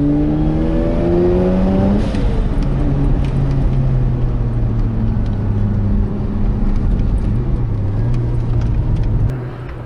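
Turbocharged Mazda RX-8's twin-rotor Wankel engine (GReddy turbo kit) heard from inside the cabin under hard acceleration: the note climbs for about two seconds, breaks off with a short rush of noise, then runs on lower and steadier before dropping away near the end.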